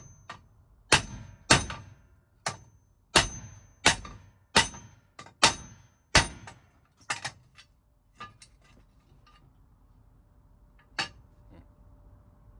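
Hammer striking metal: about nine heavy blows, roughly one every two-thirds of a second, some leaving a short high ring. Then a few lighter, irregular knocks, and one more strike near the end.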